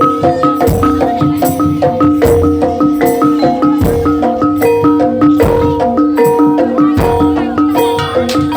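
Live Javanese gamelan for a jaranan dance: bronze metallophones play a fast, repeating melody of ringing notes, with deep drum strokes every few seconds.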